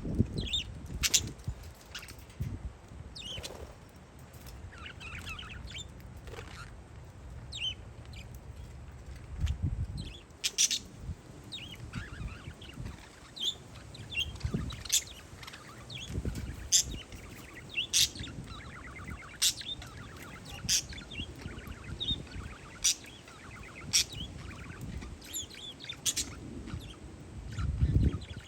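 Parakeets chirping, short shrill calls repeating every second or two, with bouts of chatter. Wind gusts on the microphone come and go as low rumbles.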